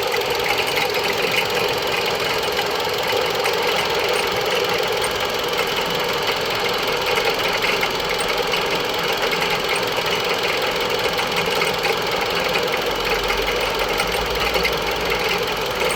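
Mitsubishi Lancer X 1.8-litre engine idling steadily, heard close to the belt-driven accessories, which the owner says squeak from time to time.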